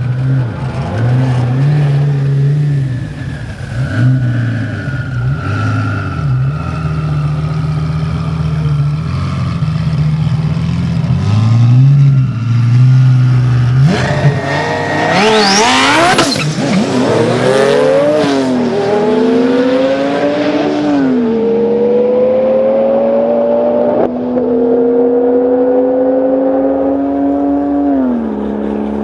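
Twin-turbo Lamborghini Gallardo's V10 revved in short bursts on the line, then launched down the drag strip. The engine note climbs steeply and drops back at each of several upshifts as the car pulls away.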